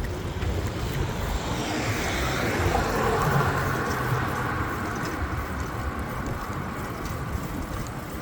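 Wind buffeting the microphone on a moving bicycle, with road traffic around it. A passing vehicle swells up about two to three seconds in, its pitch falling as it goes by, then fades.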